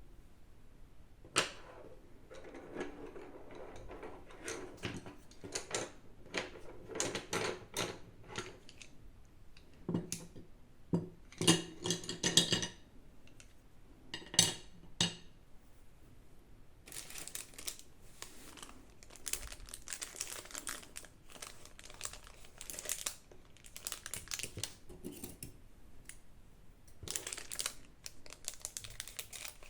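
Packaging being handled and unwrapped by hand: irregular crinkling and rustling with sharp snaps, loudest about a second and a half in and again around the middle.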